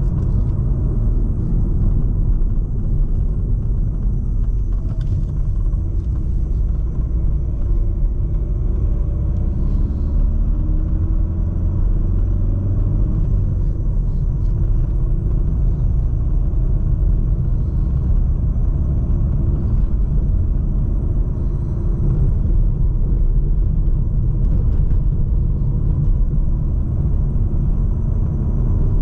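Volkswagen Golf 7 1.6 TDI four-cylinder diesel engine running as the car drives, under a steady low rumble of engine and road noise. The engine note glides up in pitch a few times around the middle.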